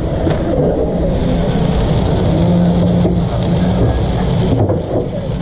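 Steady, loud mechanical rumble with a hiss over it, with a short low hum in the middle.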